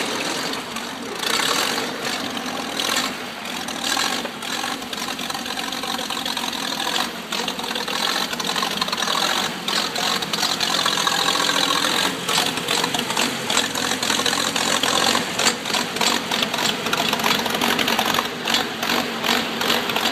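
The Cletrac BGS crawler tractor's Hercules JXD six-cylinder gasoline engine running steadily, a little louder in the second half.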